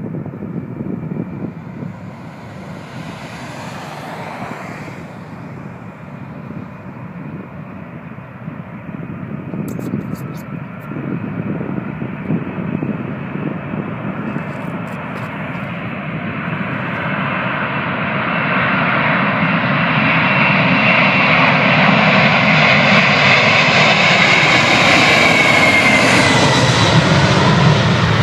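Boeing 747's four jet engines at takeoff power: a rumble with a high whine that grows much louder over the second half as the airliner comes closer, the whine dropping slightly in pitch near the end as it passes.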